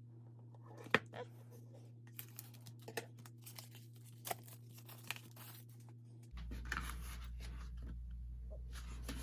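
Plastic shrink wrap being torn and crinkled off a sealed CD album, in scattered short rustles and clicks with a longer tearing stretch about five seconds in.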